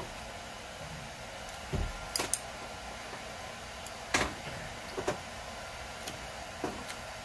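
A person chewing a mouthful of food with the mouth closed: a scattering of short, sharp mouth clicks and smacks, a few seconds apart, over a steady background hiss.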